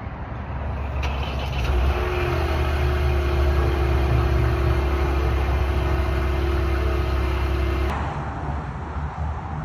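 Vehicle engine running at a high cold-start idle, swelling in the first couple of seconds and then holding steady with a constant whine over the low exhaust note. About eight seconds in, the sound changes abruptly to a quieter engine sound.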